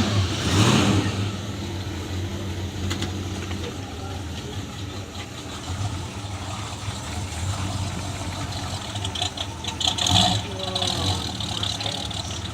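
Classic car engine, loud in the first second or so, then idling steadily, with another short burst of revving about ten seconds in.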